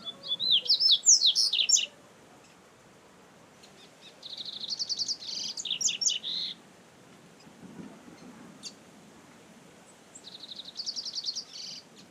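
Double-collared seedeater (coleiro) singing three fast, high-pitched song phrases of quick notes: one at the start, one about four seconds in, and one near the end.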